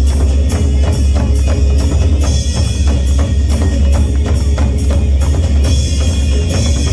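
Korean folk drums played as an ensemble in a fast, steady rhythm of strokes, with a heavy low drum beat underneath.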